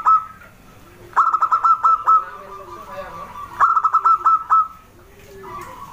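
Zebra dove (perkutut) singing: two phrases of quick, clipped cooing notes, one about a second in and another about two and a half seconds later, with a softer call starting near the end.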